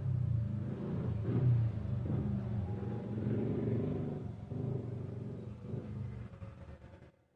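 Low rumbling drone with a few faint steady tones above it, fading away near the end.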